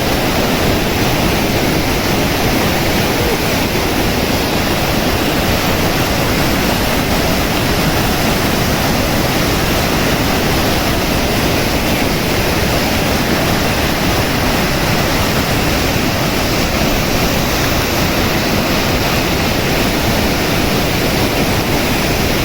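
Heavy monsoon rain falling: a steady, even rush of water with no breaks.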